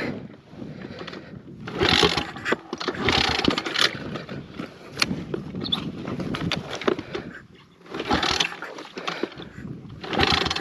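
Kawasaki pit bike's small single-cylinder engine being started, with several short irregular bursts of sputtering and turning over in separate tries and quieter gaps between them. The rider suspects a snapped throttle cable.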